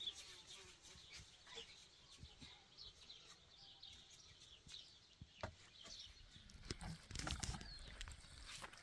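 Faint, scattered chirping of small birds or poultry. About seven seconds in comes a louder stretch of noisy knocking and handling sounds.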